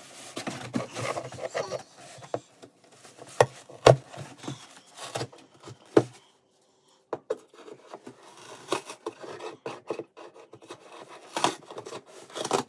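Kid's scissors cutting and scraping through stiff material in irregular snips and rasps. The sound stops for about a second around the middle.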